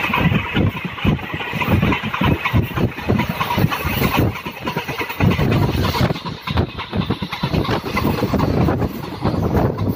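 Passenger train running along the track, heard from on board: a dense, uneven rumble and clatter of the wheels on the rails.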